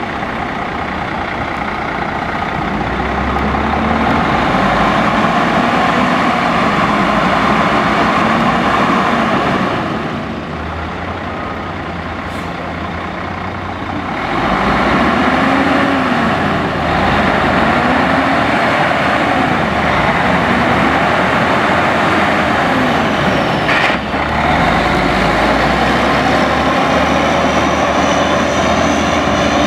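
Diesel engine of a 2007 Western Star 4900 truck tractor running steadily, dropping somewhat quieter for a few seconds around the middle.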